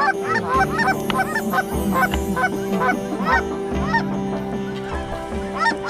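A flock of geese honking, many short calls overlapping several times a second, over a steady music bed.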